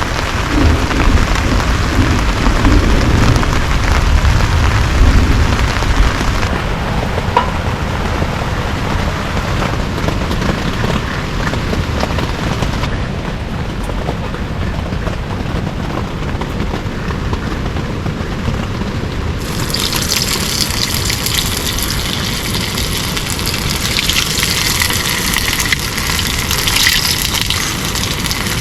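Heavy rain falling steadily, with a low rumble under it for the first six seconds. The rain's sound changes abruptly three times, growing brighter and hissier from about twenty seconds in.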